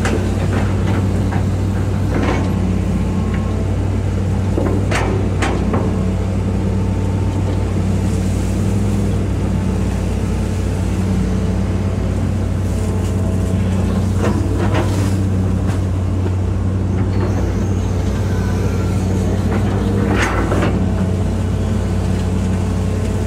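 Hitachi EX200-5 excavator's diesel engine running at a steady working speed while it digs, with a handful of brief sharp clanks or squeaks from the working machine, around 2, 5, 15 and 20 seconds in.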